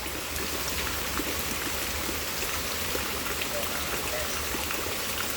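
Steady rain falling during a thunderstorm, an even hiss of drops with scattered small pattering.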